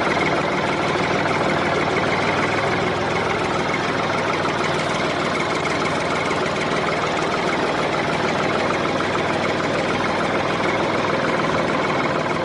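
A vehicle engine running steadily at idle, unbroken throughout.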